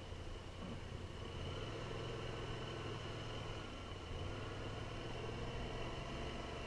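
Motorcycle engine running steadily under way, with a hiss of rushing air; its note grows stronger about one and a half seconds in and again about four seconds in.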